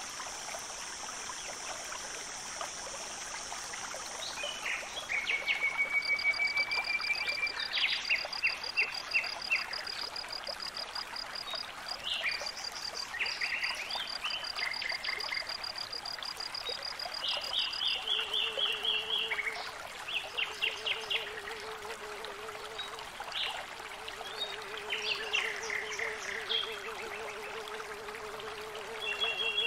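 Several birds singing in short repeated chirping phrases over a soft steady hiss. A high, even trill runs through the first half and stops about 18 seconds in. In the second half a lower pulsing call joins in.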